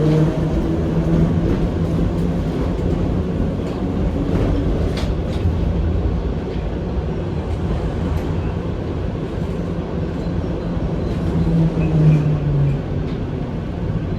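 Heritage tram running along the track: a steady rumble, with a low hum at the start that fades and returns about twelve seconds in, and a few light clicks around five seconds in.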